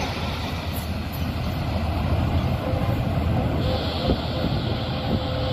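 Freight train of open wagons rolling along the rails, a steady low rumble of wheels on track. A faint steady whine joins about halfway through, and there is a single knock about four seconds in.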